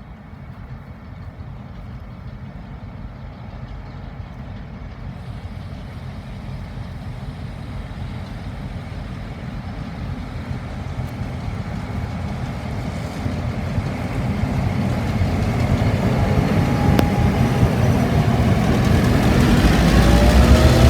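Diesel locomotives approaching. The low engine drone grows steadily louder throughout, and rising whines come in near the end as they draw close.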